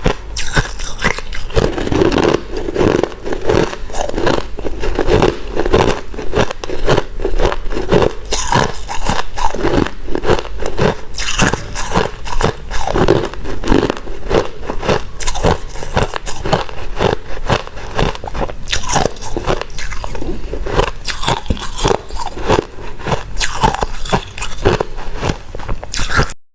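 White ice being bitten and chewed, a steady run of loud, dense crunching and crackling.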